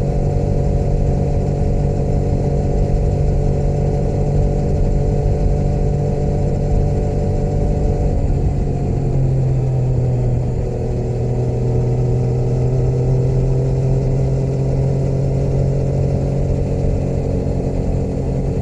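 Motorcycle engine running steadily under way; about eight seconds in its pitch drops as the throttle eases or a gear changes, then it holds steady again.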